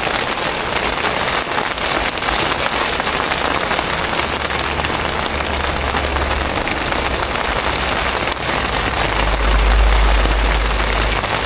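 Steady rain falling on a tent, an even hiss of drops, with a low rumble building underneath in the last few seconds.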